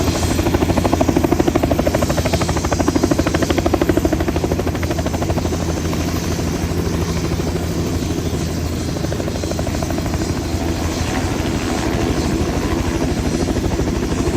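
Tour helicopter running close by, its rotor blades beating in a fast, even pulse over a steady turbine hum.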